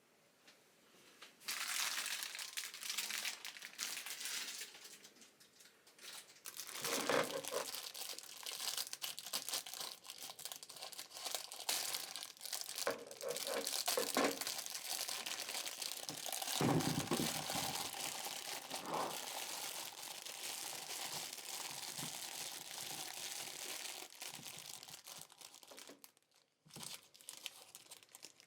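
Crinkling and rustling of a crinkly material being handled, with scattered small knocks.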